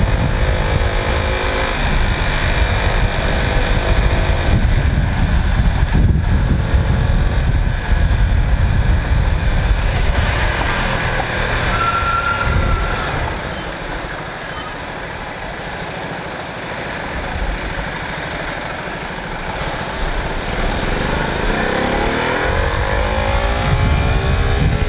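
Motorcycle engine running on the road with wind rumbling on the microphone. The engine eases off and the sound drops in the middle, then the pitch rises again near the end as it accelerates.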